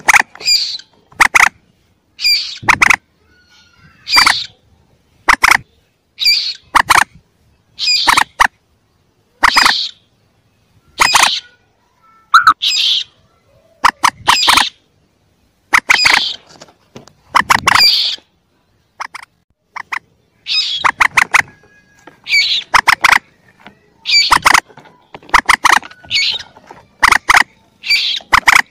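Young common moorhen (mandar) calls from a bird-lure recording: short, loud, sharp call bursts repeated roughly every one to one and a half seconds, with brief silences between.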